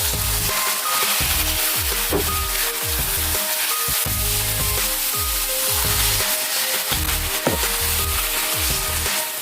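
Food sizzling in hot oil in a frying pan, a steady hiss, with background music playing under it.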